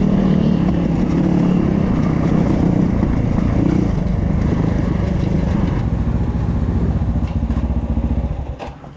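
Enduro motorcycle engine running on throttle, loud and continuous, dropping away near the end.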